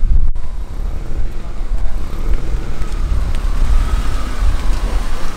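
BMW E36 coupe's engine and exhaust running at low speed as the car backs slowly out, a deep steady rumble.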